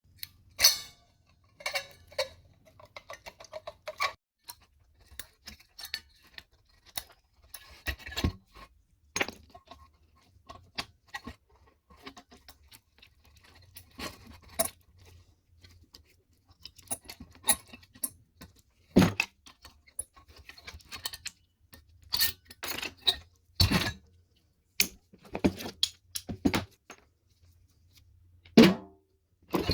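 Irregular metallic clinks, knocks and rattles of hand tools against the sheet-metal casing and parts of a microwave oven being dismantled.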